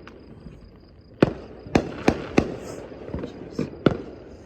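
Fireworks going off: a quick run of about six sharp bangs over two and a half seconds, starting about a second in.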